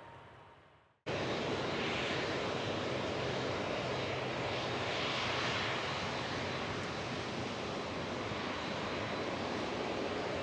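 A jet airliner's engines running loud and steady. The noise starts abruptly about a second in, after the previous sound fades out.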